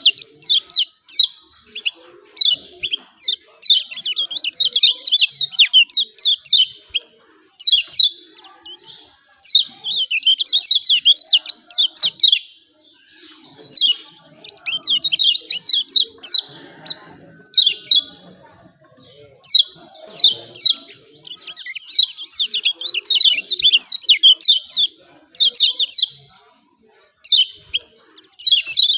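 Kecial kuning (a yellow white-eye) giving its fast, emotional 'ciak ciak' chatter: rapid strings of high chirping notes in bouts of one to three seconds, broken by short pauses. This is the agitated call used as a lure to set other white-eyes singing.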